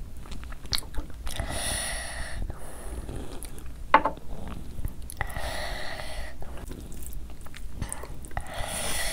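Chewing a mouthful of mutton biryani, with wet mouth clicks and smacks and a sharp click about four seconds in. Three breaths through the nose, each about a second long, come between the chews.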